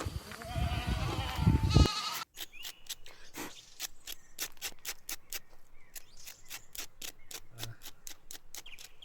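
A goat bleating loudly with a wavering, quavering pitch for about the first two seconds. It cuts off suddenly and gives way to a quieter run of sharp, irregular clicks and crackles.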